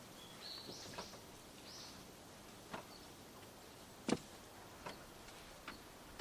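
Quiet outdoor campsite ambience: a steady hiss with a handful of light taps and knocks, the loudest about four seconds in, and two short high bird chirps in the first two seconds.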